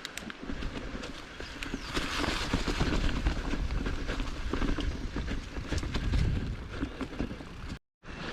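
Giant Trance mountain bike rolling over rough, rocky singletrack: tyres and frame rattling and knocking irregularly, with wind rumble on the microphone. The sound cuts out for a moment near the end.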